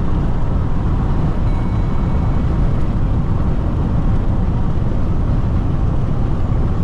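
Steady road and engine noise inside the cabin of a Jeep Renegade Diesel cruising on the highway: a constant low rumble with no changes.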